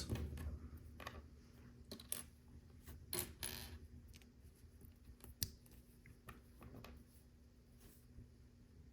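Small hard plastic LEGO pieces clicking and clattering as they are picked through and handled, in scattered separate clicks with a short clatter a few seconds in.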